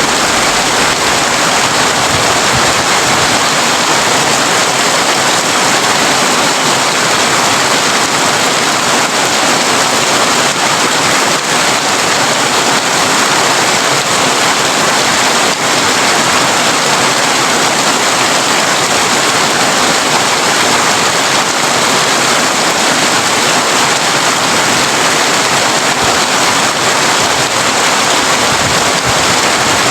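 Heavy rain drumming on a tin roof: a steady, dense hiss of drops that does not let up.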